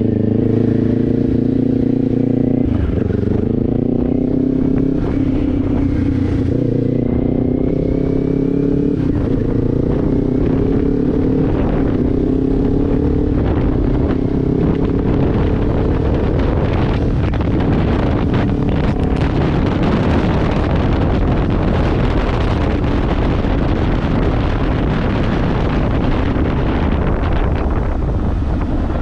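Kawasaki Ninja 500's parallel-twin engine running through a Leo Vince aftermarket exhaust under way: a gear change about two and a half seconds in, then the engine pulls steadily with its pitch slowly climbing. Wind rush builds over the engine in the second half.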